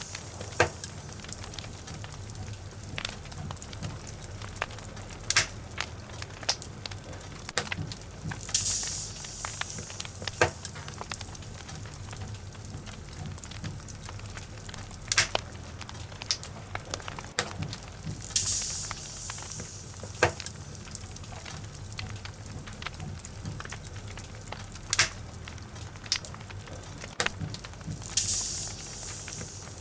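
A log fire crackling in a fireplace: irregular sharp pops and snaps over a steady low rush of burning. A short high hiss swells up about every ten seconds.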